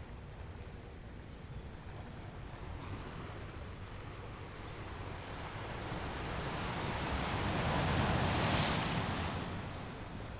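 Ocean surf: a steady rush of waves that swells to a loud breaking crash about eight seconds in, then falls away.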